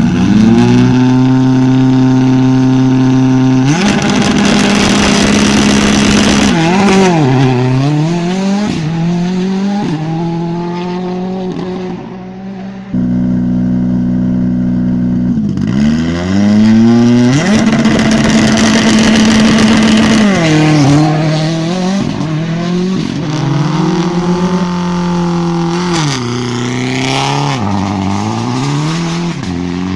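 Rally cars driven flat out on a stage, in two runs: the engine climbs through the gears in quick upward steps, holds high revs, then dips and swings back up in pitch with downshifts for a corner.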